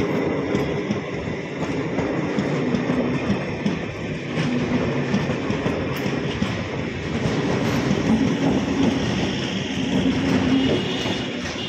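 MEMU electric passenger train passing close by: steady rumble and clatter of the coaches' wheels on the rails, with a faint high-pitched squeal near the end.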